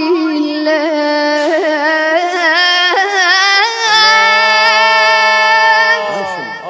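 A boy's voice chanting an Iraqi Shia elegy (latmiya) in long, ornamented held notes with a wavering vibrato. About four seconds in, a lower voice joins on a steady held note. The line falls away in pitch near the end.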